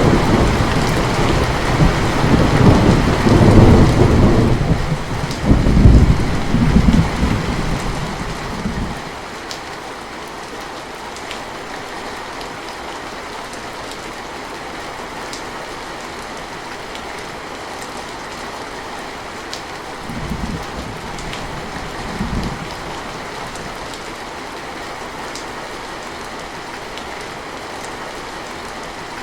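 Steady heavy rain with a long rumble of thunder over the first nine seconds that stops fairly abruptly, then rain alone, with two short, fainter thunder rumbles about two-thirds of the way through.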